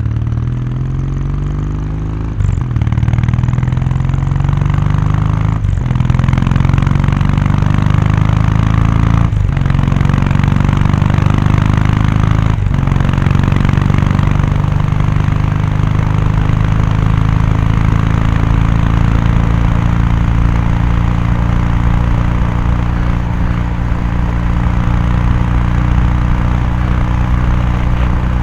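Kawasaki Meguro K3's air-cooled parallel-twin engine and exhaust, accelerating up through the gears: the note rises and drops four times at quick upshifts over the first dozen seconds or so. It then holds a steady cruising note.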